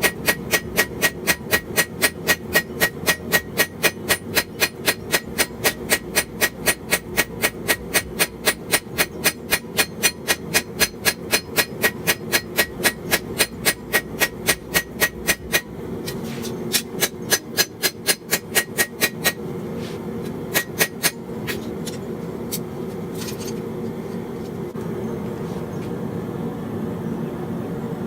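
Metal hammer blows on steel at the anvil, forging a blade: a fast, even run of ringing strikes at about four a second for some fifteen seconds, then a few short flurries of blows, and two last strikes about 21 seconds in. A steady rushing noise runs underneath throughout.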